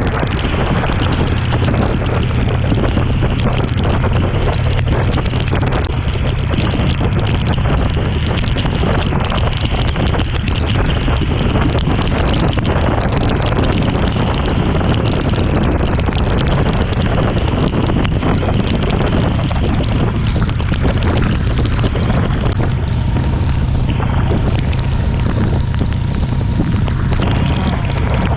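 Motorcycle riding at expressway speed through a heavy downpour: a dense, steady roar of wind buffeting the microphone, with the bike and the rain mixed in underneath.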